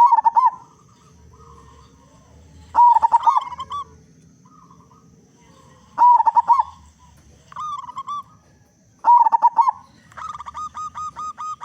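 Local zebra dove (perkutut) cooing: loud phrases of rolling, bent notes about every three seconds. Near the end the phrases give way to a run of quick repeated notes.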